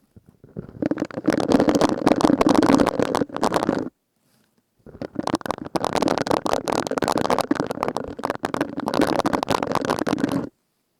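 Silicone scrubber sponge rubbed and squeezed close to the microphone, giving dense crackling friction. It comes in two long bouts: the first runs from about a second in to about four seconds, and the second from about five seconds to just before the end.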